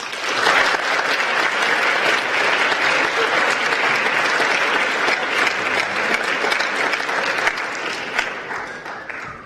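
Audience applauding, starting suddenly as a piano piece ends and thinning out over the last second or two.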